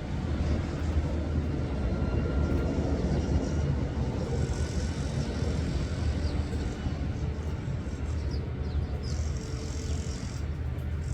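Steady low rumbling outdoor noise, with faint high hissing stretches in the second half.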